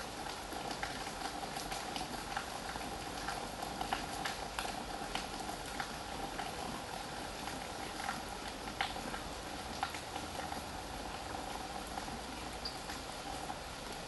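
Steady rain, with irregular drops ticking and pattering on a wet wooden deck.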